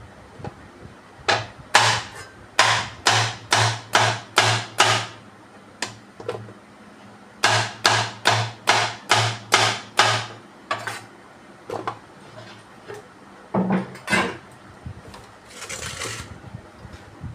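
Two runs of rhythmic sharp knocks, about two to three a second, like repeated blows on wood, followed by a few scattered knocks and a brief rustling scrape near the end.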